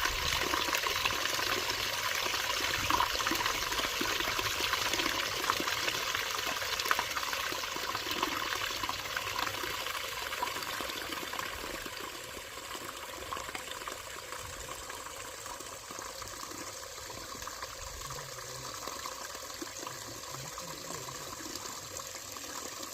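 Mountain valley stream flowing over rocks, a steady rushing of water that eases to a somewhat quieter level from about ten seconds in.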